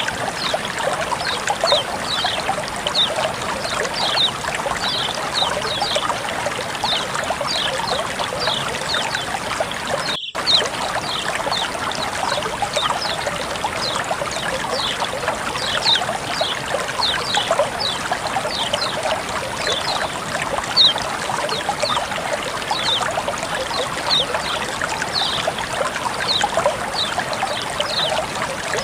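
Water flowing and trickling steadily, with many short high ticks over the running water; the sound cuts out for an instant about ten seconds in.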